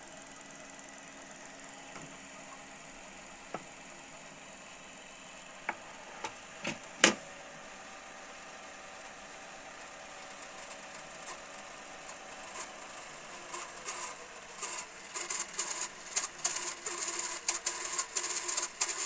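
Mechanism of a Panasonic NV-SD300 VHS video recorder: a few sharp clicks, the loudest about seven seconds in, then a fast irregular ticking rattle that starts about ten seconds in and grows louder and denser.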